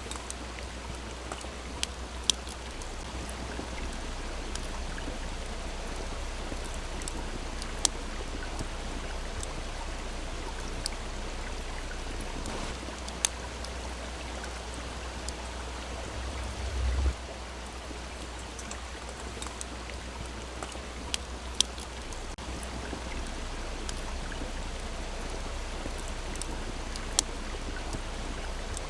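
A small stream flowing steadily, with the sharp pops and crackles of a wood campfire scattered through it, a few of them loud. A brief low rumble swells and stops about seventeen seconds in.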